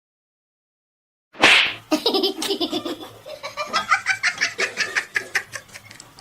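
A person laughing hard in a quick run of repeated 'ha' pulses, starting with a sudden loud burst after a moment of silence and trailing off toward the end.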